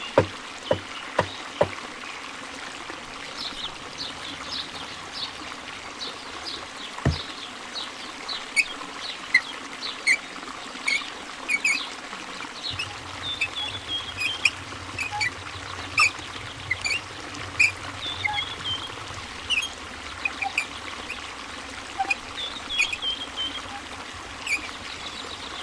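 Water trickling steadily, with many short high chirps over it and a few sharp knocks in the first two seconds.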